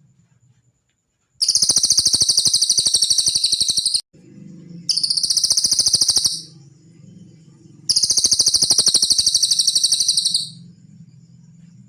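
Cililin songbird singing three rapid, high trills of one to two and a half seconds each, with short pauses between them.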